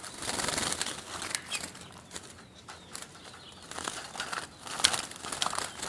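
Birds fluttering and flapping their wings in irregular bursts, with sharp clicks and a few brief chirps.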